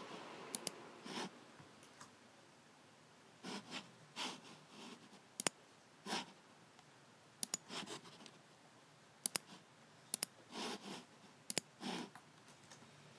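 Logicool G7 mouse buttons clicking: sharp clicks at irregular intervals, often in quick pairs, with softer, longer scuffing sounds between them.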